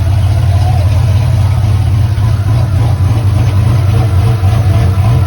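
Chevy car engine idling steadily, a constant low hum with no revving.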